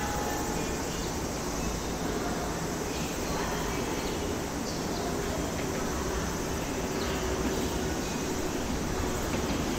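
Two JR electric commuter trains, an E233 series and an E217 series, approaching on parallel tracks. Their distant running noise makes a steady, even rumble, with a faint hum from about three seconds in to near the end.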